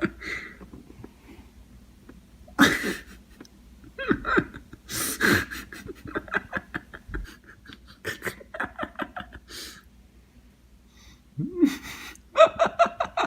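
People's voices in short bursts with pauses between: brief cries and breathing, and a quick run of laughter near the end.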